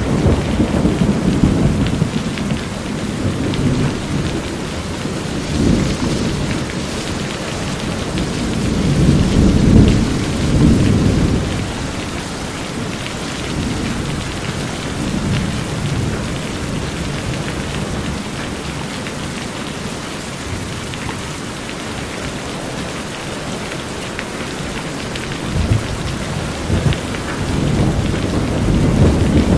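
Steady heavy rain drumming on a corrugated metal roof, with low rolls of thunder swelling and fading; the loudest rumble comes about ten seconds in, and another builds near the end.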